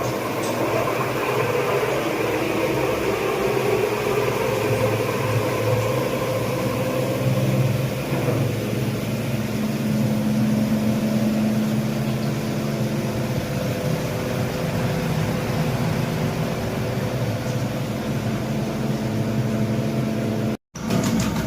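An engine or motor running steadily with an even hum, cutting out for a moment near the end.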